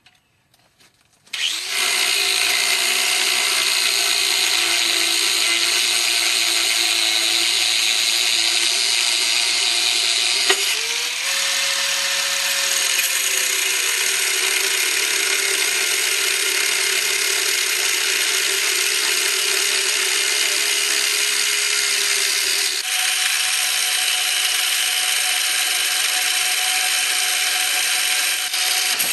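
Angle grinder spinning up about a second in and cutting steadily with a loud, hissing whine. Its pitch shifts twice, near the middle and again later.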